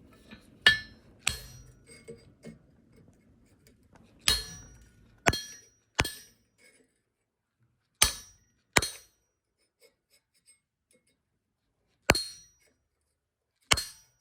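Blacksmith's hammer striking the hot steel leaf on the anvil: about nine separate blows at an uneven pace, each ringing briefly. The blows put the centre crease (vein) into the leaf.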